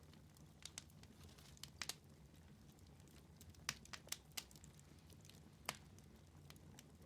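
Wood fire in a fireplace crackling faintly, with scattered sharp pops over a low steady rumble; a cluster of louder pops comes about halfway through.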